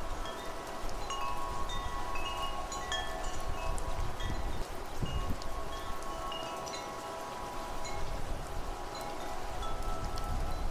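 Wind chimes ringing, many short overlapping tones struck at random over longer tones that hang on. A low wind rumble rises and falls beneath them.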